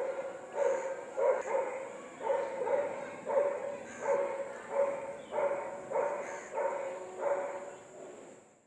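A dog barking over and over, about one to two barks a second, fading away near the end.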